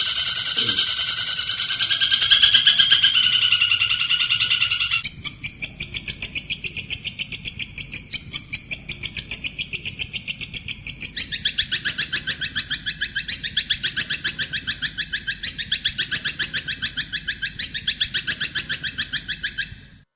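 Recorded songbird song: a rapid, even trill of high repeated notes. About five seconds in it turns quieter and higher, about eleven seconds in it broadens again, and it cuts off abruptly just before the end.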